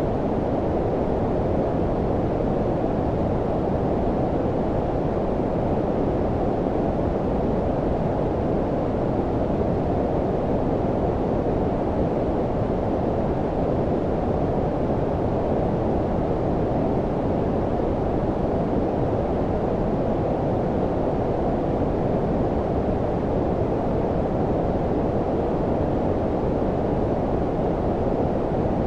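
Steady low-pitched synthetic noise, like brown noise: an even, unchanging rumbling hiss with most of its weight below about 1 kHz and little treble.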